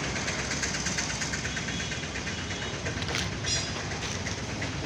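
Tractor diesel engine running steadily, with a rapid, even mechanical clatter.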